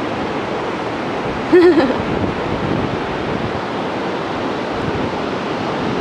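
Steady rush of beach surf mixed with wind noise on the microphone, with one short voice-like call about one and a half seconds in.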